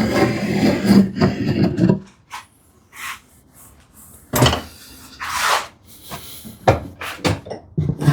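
Wood scraping against wood for about two seconds as the workpiece is shifted on the workbench, then a series of separate wooden knocks and short scrapes as it is set down and repositioned.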